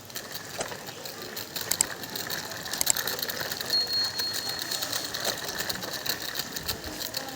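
Small toy vehicle's gears running with rapid, even mechanical clicking, a few louder clicks among them and a brief steady high tone about four seconds in.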